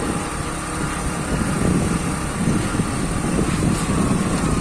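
A motor vehicle's engine running steadily, with a low rumble that swells from about a second and a half in.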